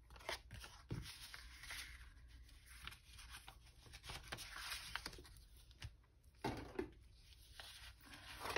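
Paper and cardstock being handled: soft rustling with scattered light taps and clicks.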